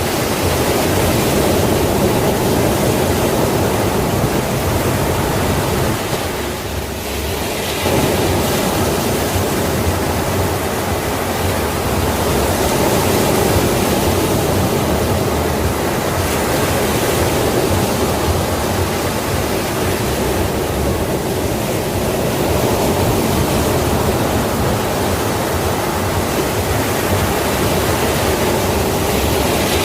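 Sea waves washing continuously as a dense, steady rush of surf, easing briefly about seven seconds in before swelling again.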